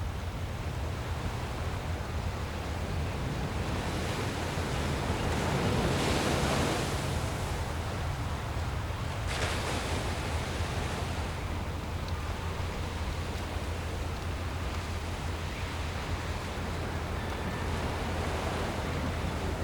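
Steady rushing noise over a constant low hum, swelling louder twice, about five and ten seconds in, like wind gusting over the microphone.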